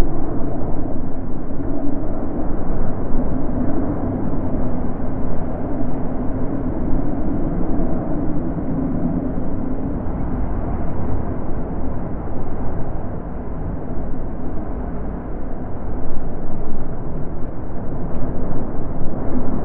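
Wind blowing in gusts: a low rushing noise that swells and eases, growing stronger again near the end.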